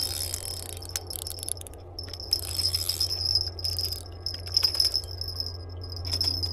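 Insects singing in a steady high-pitched chorus that swells and fades in stretches, with a few scattered sharp clicks.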